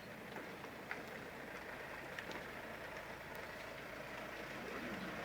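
Motorcycle engines idling faintly, a steady low hum with a small click about a second in.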